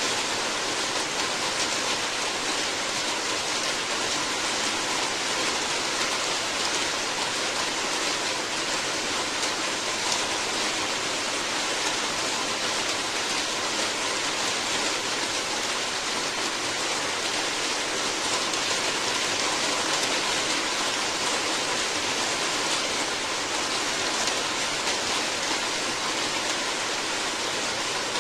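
Steady heavy rain, a dense even hiss of falling water without pauses or distinct events.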